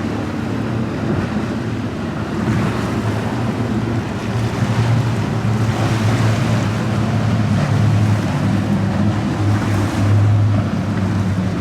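Motorboat engines running with a steady low drone, over waves washing and wind buffeting the microphone.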